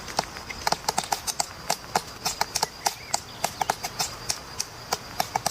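Woodpecker pecking at wood: irregular sharp taps, a few a second and unevenly spaced, over a faint steady high tone.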